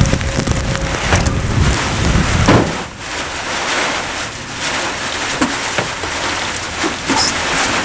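Heavy rain falling in a thunderstorm, a steady hiss with scattered drop impacts. A loud low rumble sits under it for the first two and a half seconds, then drops away suddenly.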